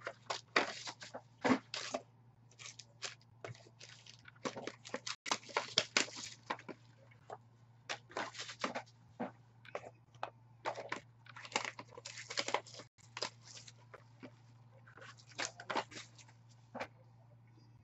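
Trading-card packaging being handled: a dense run of short crinkles and tears, with a few sharper crackles around the middle, over a steady low electrical hum.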